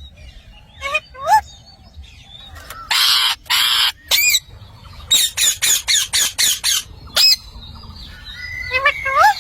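Pet parrot calling: a couple of short rising calls, then two long harsh screeches about three seconds in, followed by a quick run of about seven sharp squawks and a few more rising calls near the end.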